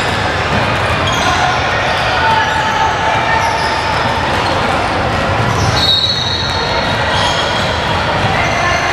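Basketball bouncing on a gym floor during a game, amid voices from players and spectators echoing in the hall, with short high squeaks throughout.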